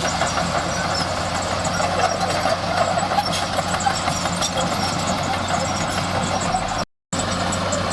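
Diesel engine of heavy earthmoving machinery running steadily. The sound cuts out completely for a moment about seven seconds in.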